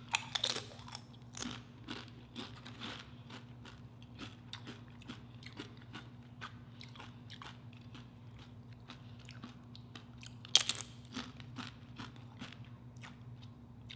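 Close-miked crunching and chewing of crisp tortilla chips: a cluster of crisp bites just after the start, a loud crunch about ten and a half seconds in, and many small crackles of chewing in between.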